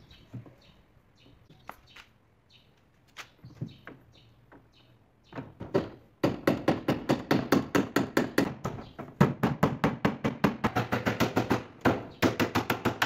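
A hammer striking nails into wooden boards: a few scattered light knocks at first, then, from about six seconds in, a fast, steady run of sharp blows, several a second.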